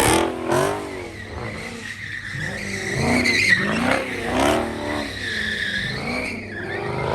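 A car's engine revving up and down over and over while its tyres squeal and skid, as in a burnout or donut.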